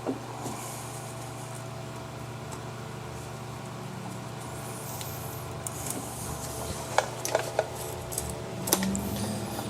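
A few light metallic clinks and taps about seven to nine seconds in, as tools and brake caliper parts are handled while the slide pins are greased, over a steady low hum.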